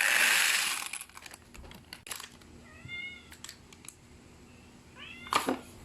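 Dry elbow macaroni pouring into a bowl in a short rush, followed by a few light clicks of the pasta settling. A cat meows briefly twice, about three and five seconds in.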